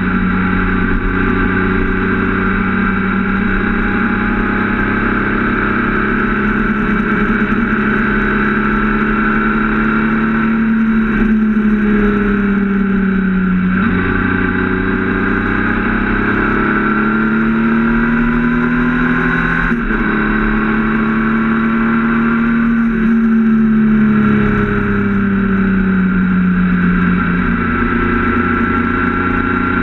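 Triumph Speed Triple RS 1050's inline three-cylinder engine running on the move, its pitch rising and falling with the throttle through a run of bends. It drops twice as the rider rolls off and climbs again on the throttle in between.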